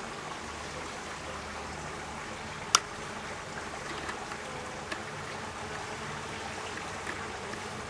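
Steady buzzing of a honeybee colony stirred up by the hive being opened, with a sharp knock about two and a half seconds in and two fainter clicks later.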